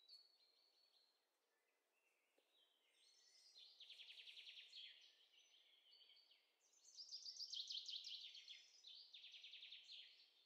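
Faint birdsong: phrases of rapid, trilling chirps, quieter early on and loudest about seven to eight seconds in.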